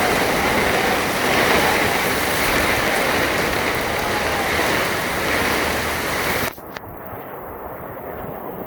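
Heavy rain pouring down, a dense even hiss. About six and a half seconds in it cuts off abruptly to a quieter, muffled rumble.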